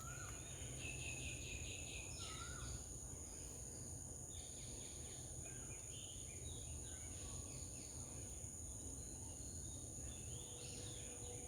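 Garden birds calling: short wavy whistles and chirps, with a rapid trill about a second in, over a steady high-pitched insect drone and a low rumble.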